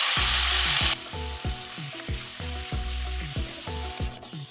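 Onions and grated tomato sizzling in hot oil in a kadhai, loud for about the first second, then dropping sharply to a quieter sizzle. Under it runs background music with a steady low beat.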